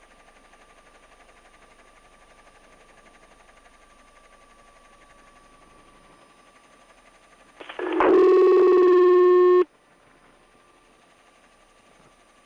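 Faint hiss of a quiet radio or phone line with a thin steady whine under it. About eight seconds in, a loud, buzzy electronic beep holds one pitch for about two seconds and then cuts off abruptly.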